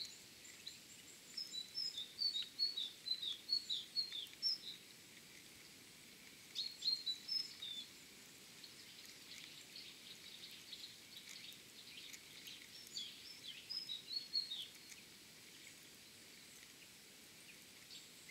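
Small songbirds chirping in three bursts of quick, high, twittering notes, over a faint steady outdoor hiss.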